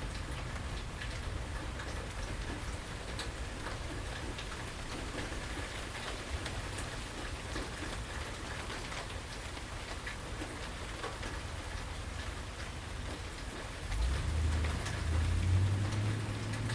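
Steady rain falling, with many small drips and drops ticking on surfaces. About fourteen seconds in, a louder low rumble comes in, with a low hum that rises slightly in pitch.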